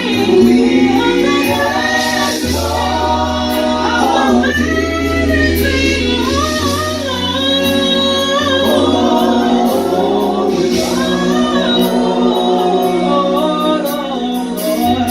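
Church worship team singing a slow gospel song, voices gliding and holding long notes over instrumental accompaniment with a steady bass line.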